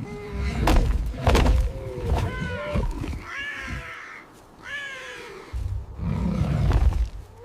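Animal calls: two sharp thuds, then several short calls that rise and fall in pitch, followed by a low rumble in the last couple of seconds.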